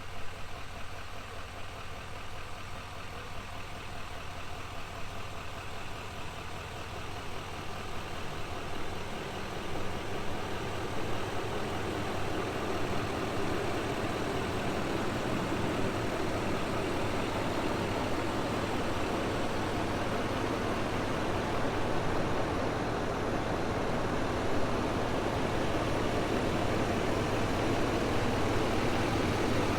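The 2020 GMC Sierra 2500HD Denali's 6.6-litre turbodiesel V8 idling steadily, growing louder over the first dozen seconds or so and then holding even.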